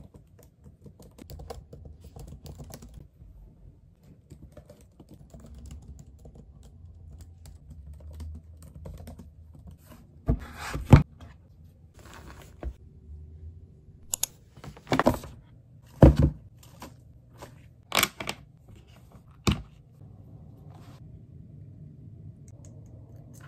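Typing on a laptop keyboard, a run of quick light key clicks. About ten seconds in, the typing gives way to a handful of loud sharp knocks and rustles as objects are handled and set down.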